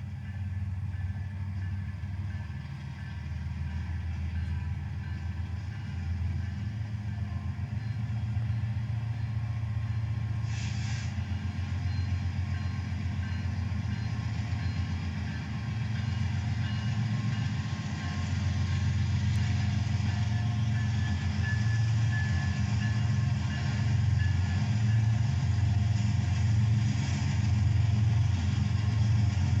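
Diesel-electric locomotive engines of a four-unit BNSF consist running with a deep, pulsing rumble that grows steadily louder as they are revved up. A short hiss about ten seconds in.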